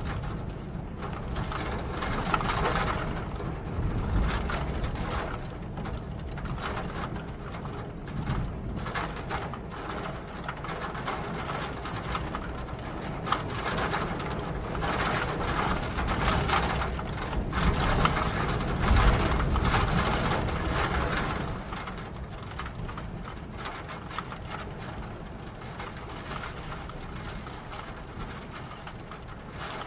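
Steady rain, a dense pattering of drops over a low rumble, growing louder for a few seconds past the middle.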